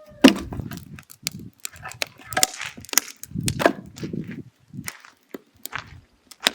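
Firewood crackling and popping as it burns down to coals in a mangal: irregular sharp cracks, some loud, with short low thuds among them.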